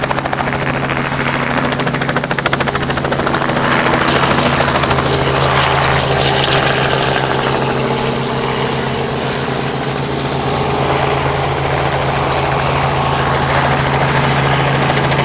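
A tour helicopter running close by, its rotor beating rapidly and steadily over a steady engine hum.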